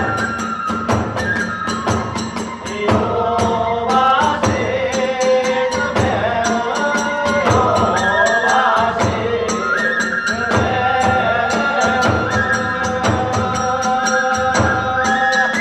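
Hiroshima kagura ensemble playing: a bamboo flute melody in held, stepping notes over rapid, continuous clashing of small hand cymbals and regular drum beats.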